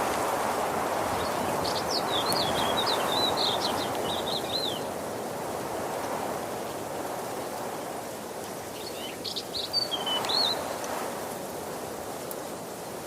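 Steady rushing of a waterfall, swelling and easing. A songbird sings twice over it, a run of quick notes about two seconds in and a shorter phrase near ten seconds.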